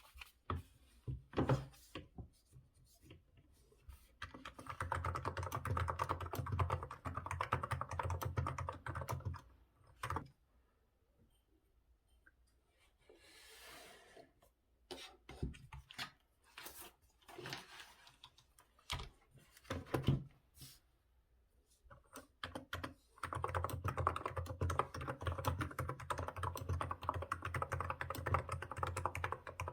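Typing on a Hansung GK868B Tico electro-capacitive keyboard with 35 g keys. Single keystrokes alternate with two runs of fast, continuous typing several seconds long: one about four seconds in and one from about two-thirds of the way through.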